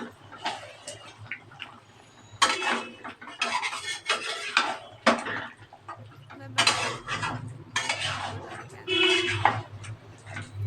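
A metal utensil stirring and scraping in a cooking pan, in a string of short clattering scrapes about a second apart.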